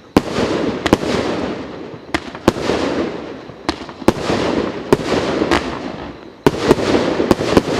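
A 1.2-inch, 37-shot "Zhar-Ptitsa" (Firebird) consumer firework cake firing shot after shot. Each shot is a sharp crack followed by about a second of fading crackle, coming roughly once a second, with some shots close together.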